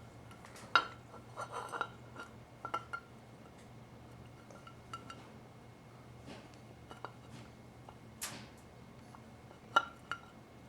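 Metal transmission pump parts clinking and tapping against each other as they are handled and set in place: scattered sharp clicks with a short ring, a few in quick succession near the start and two more near the end. A brief scrape about eight seconds in, over a faint steady hum.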